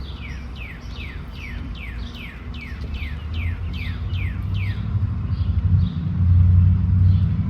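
A bird calling a quick series of downward-sliding chirps, about two or three a second, which stops about five seconds in. Under it runs a low rumble that swells and is loudest near the end.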